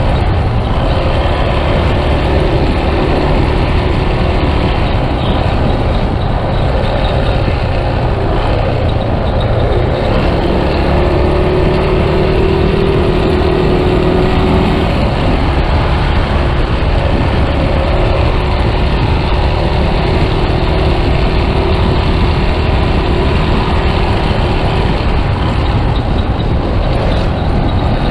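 Yamaha Scorpio's single-cylinder engine running on the move, under loud steady wind rush on the microphone; the engine note comes through more clearly in the middle stretch.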